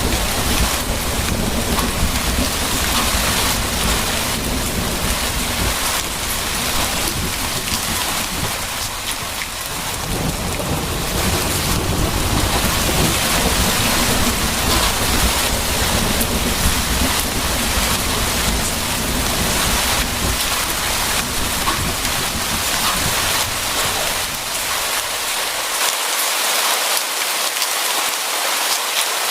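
Steady heavy rain with thunder rumbling low underneath. The rumble eases off about a third of the way in, comes back, and dies away near the end, leaving only the rain.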